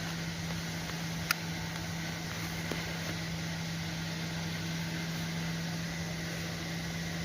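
Steady mechanical hum with a constant low tone and hiss, broken by a single sharp click about a second in.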